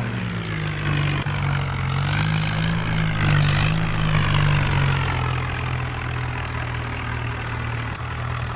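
Mini tractor's engine running steadily, its pitch wavering slightly up and down.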